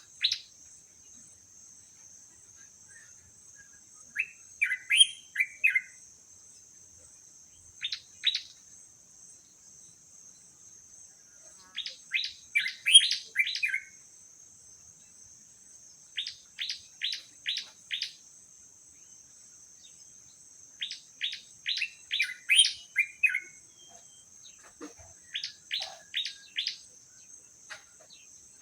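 A bird calling in groups of two to six rapid, sharp chirps, a group every few seconds, over a steady high buzz.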